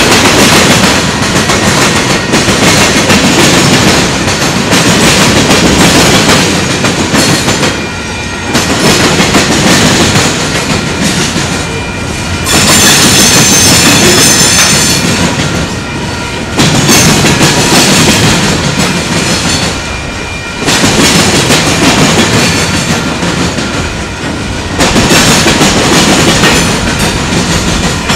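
Freight train's tank cars and covered hoppers rolling past close by, the wheels clattering over the rail crossing diamonds. The sound swells and eases about every four seconds as each car's trucks go by, with a high squeal for a few seconds about halfway through.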